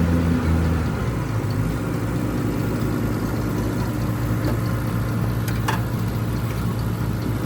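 Komatsu bulldozer's diesel engine running, dropping from higher revs to a steady idle about a second in, with an even low throb.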